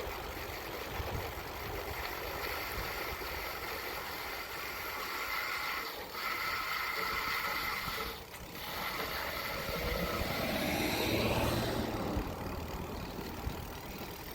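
Wind rumbling on the microphone during a bicycle ride, with a vehicle passing about ten to twelve seconds in, its sound swelling and falling away.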